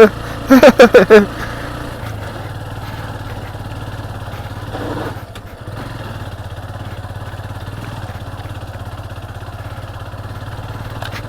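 Motorcycle engine running steadily at a low, even pitch, with a brief dip in level about halfway through. A few words are spoken in the first second.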